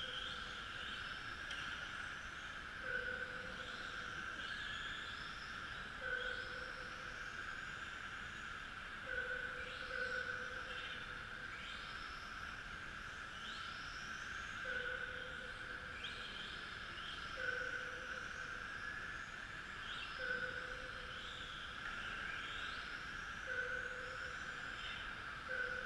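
Electric motors of radio-controlled model trucks whining as they race, with many short whines rising in pitch as the trucks accelerate, over a steady hum. A short beep sounds every two to three seconds.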